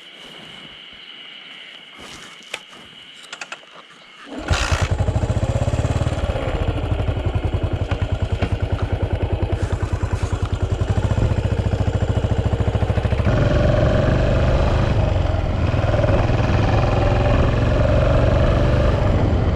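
Yamaha SR400's air-cooled single-cylinder engine firing up about four seconds in, after a few faint clicks, then running with a steady pulsing beat that grows slightly fuller near the end.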